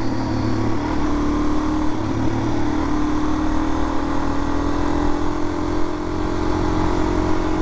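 Suzuki DR-Z400's single-cylinder four-stroke engine running at a steady cruise, its pitch rising slightly early on and then holding, with wind noise.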